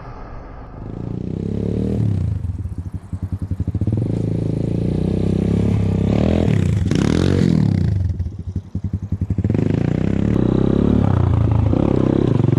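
Enduro motorcycle engine run at low speed through an obstacle section. The revs rise, drop twice to a slow chug with single firing pulses heard, swell up and back down about six seconds in, then hold steadier and higher near the end.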